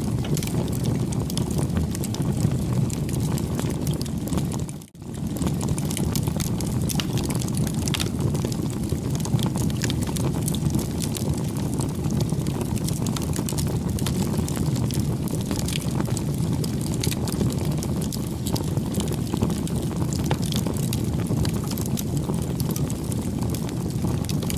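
Campfire burning: a steady low rush of flame with many small crackles and pops throughout. The sound briefly drops out about five seconds in, then carries on.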